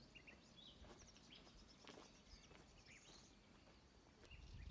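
Near silence with faint small birds chirping: a few short, high calls scattered through the first few seconds.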